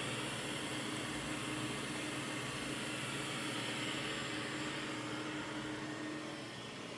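Mova P50 robot vacuum running: a steady whir with a low hum underneath, easing off slightly near the end.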